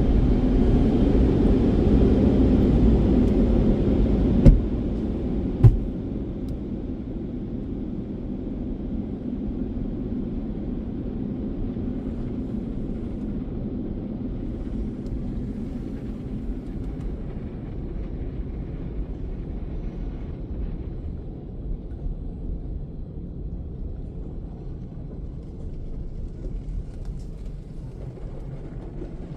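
Automatic tunnel car wash equipment working over the car, heard from inside the cabin: a loud wash for the first few seconds, two sharp knocks against the car about four and a half and six seconds in, then a quieter steady rumble.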